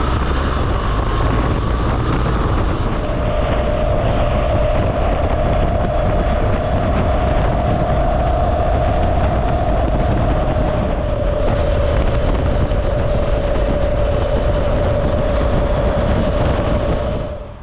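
Wind rush and road noise of a BMW R1200GSA flat-twin motorcycle ridden at speed, with the engine's low drone underneath. A steady whine joins about three seconds in, and the whole noise drops away suddenly near the end.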